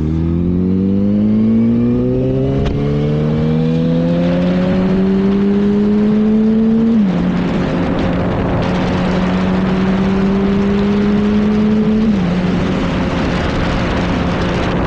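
Yamaha R1 sportbike engine accelerating hard, its pitch climbing through the revs with two upshifts, about seven and twelve seconds in, then holding steady at speed. Wind rushes over the helmet microphone.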